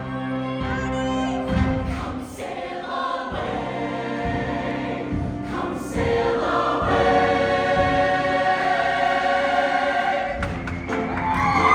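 Show choir singing held notes in harmony, with band accompaniment.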